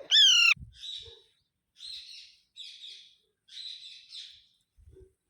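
Alexandrine parakeet calling: one loud, short, shrill call that dips in pitch, followed by four shorter, raspy chirps about a second apart.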